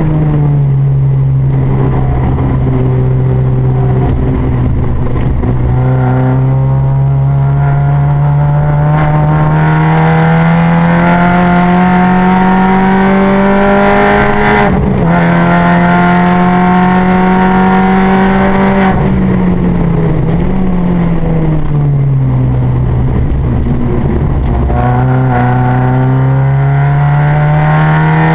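Mini's engine heard from inside the car on a race track, pulling hard through the gears. The engine note climbs steadily, breaks briefly for gear changes about six and fifteen seconds in, drops as the car slows around twenty seconds in, then climbs again near the end.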